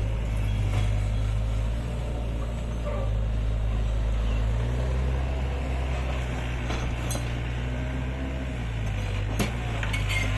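Heavy diesel engine of construction equipment running steadily with a low drone. Two sharp knocks come in the second half.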